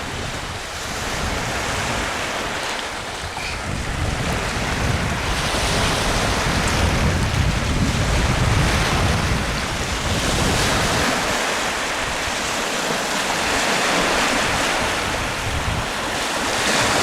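Ocean surf washing in and out, swelling and easing over several seconds, with wind buffeting the microphone in a rumbling low gusts.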